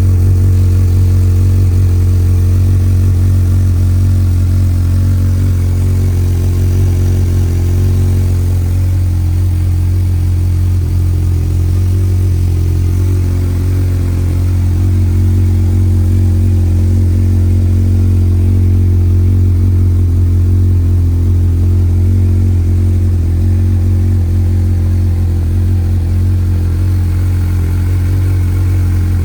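2009 Honda CBF1000's inline-four engine idling steadily with a low, even hum.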